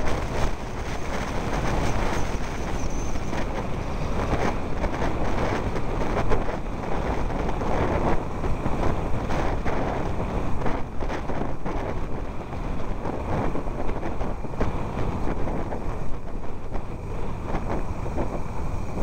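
Vehicle driving along a rough, muddy unpaved road: a steady rumble of engine and tyres, with frequent knocks and jolts from bumps and potholes.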